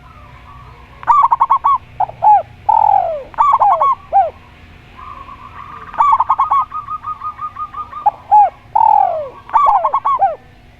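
Doves cooing in their rhythmic competition song: bursts of quick, short coo notes and long falling coos. The phrase is sung twice, with a quieter run of even notes between.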